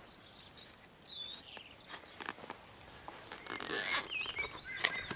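Small birds chirping in short whistled snatches, over the rustle and small clicks of a diving BCD's fabric weight pouch being handled. A louder rustle comes about three and a half seconds in.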